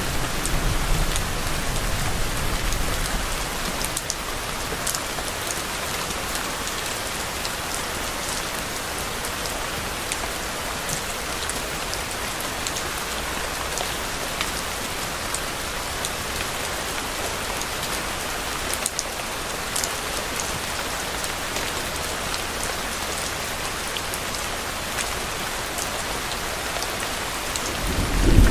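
Steady rain falling, with many fine drops ticking through the hiss. The end of a low thunder rumble fades out in the first couple of seconds, and another low rumble starts right at the end.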